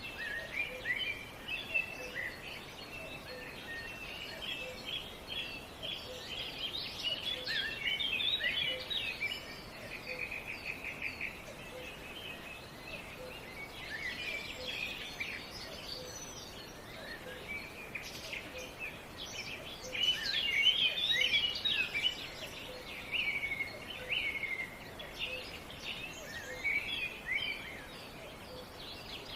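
Several songbirds singing and chirping over a steady outdoor hiss, with a rapid even trill about ten seconds in and the busiest, loudest chirping about two-thirds of the way through. A faint, regularly spaced low tick runs underneath.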